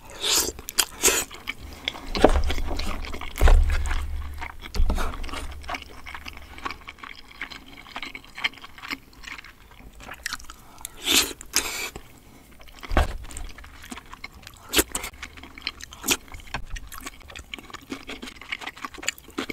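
Close-miked chewing of saucy braised chicken, with wet mouth smacks and the clicks of a spoon and chopsticks against the plastic containers. A few heavy low thumps sound between about two and five seconds in.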